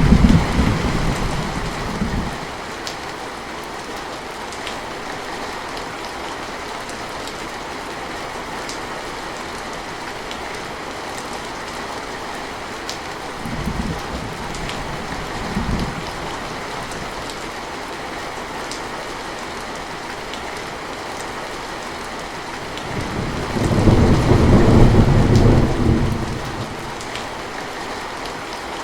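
Steady rain with scattered drops ticking, and thunder rumbling: one rumble fading out in the first couple of seconds, two short faint rumbles around the middle, and a louder rumble lasting about three seconds near the end.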